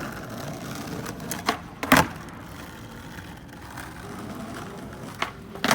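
Skateboard wheels rolling, with sharp clacks of the board, the loudest about two seconds in and another pair near the end.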